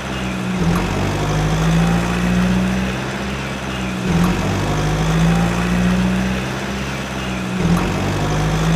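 Engine-running sound of a Swaraj 855 toy tractor, a steady low hum that repeats in a loop about every three and a half seconds, with a faint click at each repeat.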